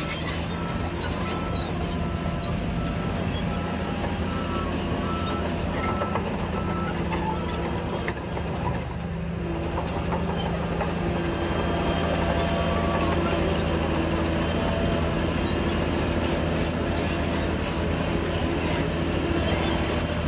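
Shantui DH17C3 crawler bulldozer's diesel engine running steadily under load amid the clatter of heavy machinery, growing a little louder about halfway through.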